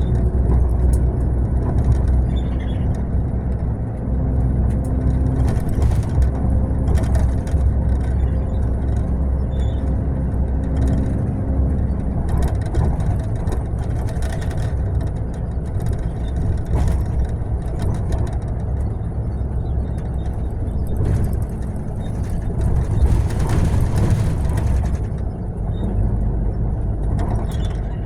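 Mercedes-Benz long-distance coach on the move, heard from inside: a steady low engine and road rumble with scattered rattles and clicks, and a short hiss of air about five-sixths of the way through.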